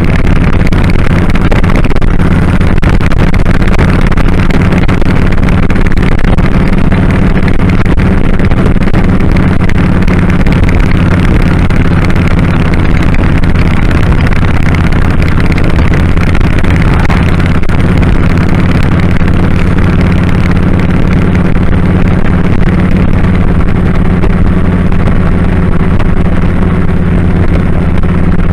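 2001 Kawasaki Drifter 1500's V-twin engine running at a steady cruise, its low note holding even with no revving up or down, heard from the rider's head-worn camera glasses.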